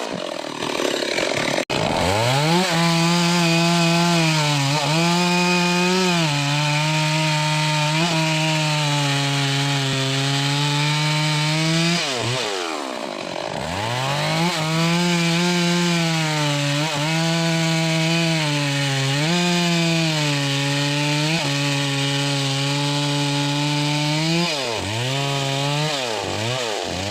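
Stihl MS 381 two-stroke chainsaw running at high revs while cutting wood, its engine note sagging slightly under load. The revs drop away and climb back near the start and again about twelve seconds in, with a few quick dips near the end.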